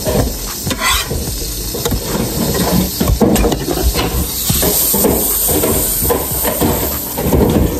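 Pancakes frying on a flat griddle, sizzling steadily, with scattered knocks and clatter from cooking close to the griddle.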